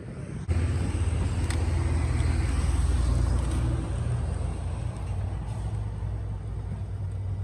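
A motor vehicle's engine running steadily, starting suddenly about half a second in.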